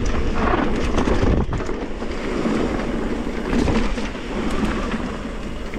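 Wind buffeting a helmet-mounted action camera's microphone while riding a mountain bike down a dirt trail, with the tyres rumbling and the bike rattling over bumps.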